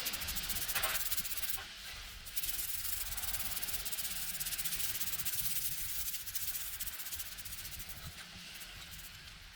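Abrasive rubbing against a hard surface, a steady rasping scrape with a short break about one and a half seconds in.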